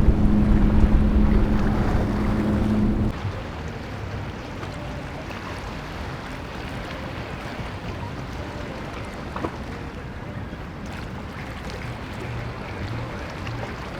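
A motorboat's engines run loud and steady for about three seconds, then cut off abruptly. After that, wind on the microphone and breaking surf carry on.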